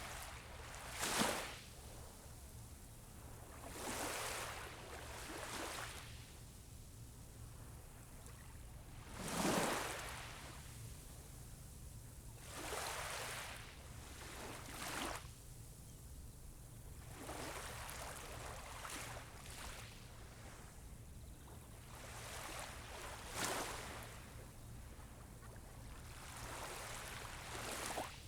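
Small sea waves breaking and washing up on a beach, one every few seconds; the loudest wash in about a second in and about nine seconds in. A steady low rumble runs underneath.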